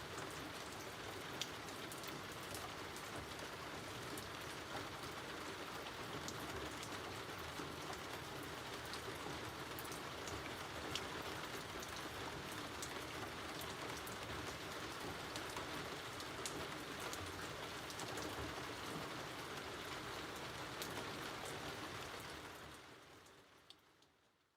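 Steady rain falling, an even hiss with scattered close drops ticking on surfaces; it fades out near the end.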